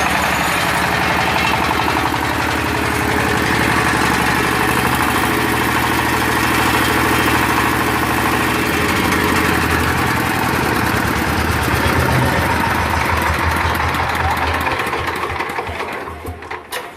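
Small diesel engine of a concrete cutter running steadily with a knocking beat. Near the end it is shut off and runs down to a stop, its firing beats slowing as it dies.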